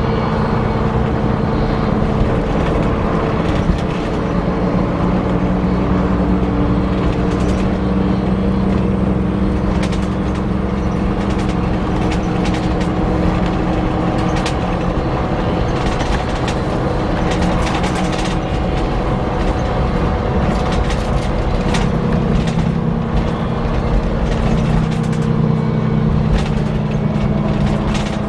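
Scania K340 coach with a Caetano Levante body running, with a steady whirring whine of several tones that drift slightly in pitch over a low rumble, and scattered clicks and rattles.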